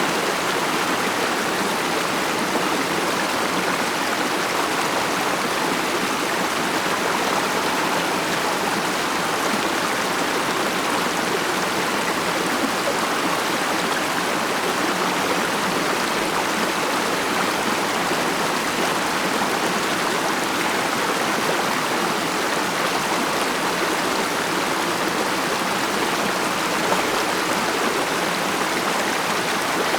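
Mountain stream water running and burbling over rocks, a steady, unbroken rush.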